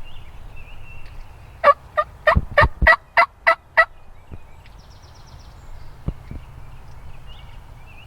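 A run of about eight loud turkey calls, roughly four a second, between two and four seconds in. Faint songbird chirps follow.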